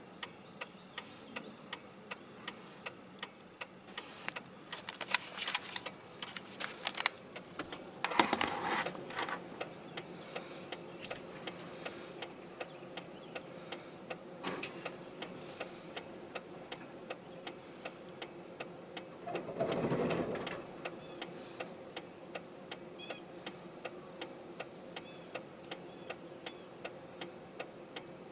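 A vehicle's hazard-light flasher ticking steadily, a few clicks a second, heard inside a pickup's cab, with a few louder muffled noises in between.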